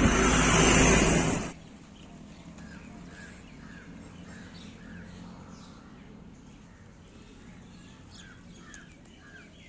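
Wind buffeting the microphone for about the first second and a half, cut off suddenly. Then a bird calling over and over in short chirps, about two a second.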